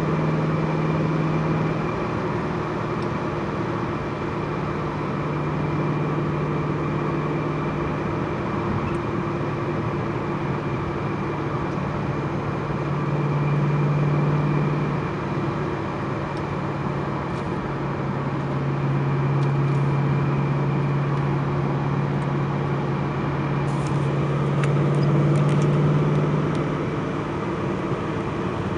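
Twin-turbocharged 5.4-litre V8 of a Ford GT running steadily, its low hum shifting slightly in pitch and swelling a little in loudness a few times.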